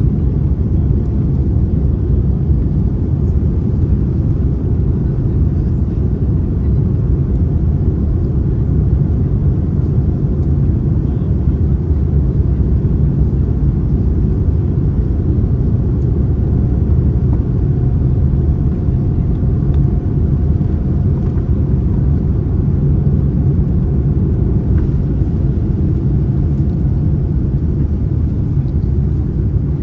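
Steady low rumble of a Boeing 787-9's engines and airflow, heard inside the passenger cabin, holding an even level with no rise or fall.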